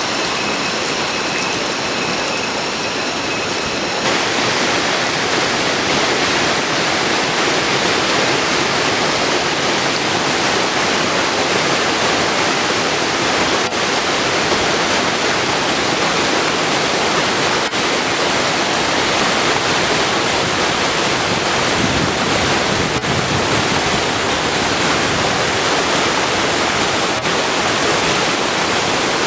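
Steady rush of a large waterfall, water falling and crashing without a break. For the first few seconds faint steady high tones sit over it; then the rush grows a little louder.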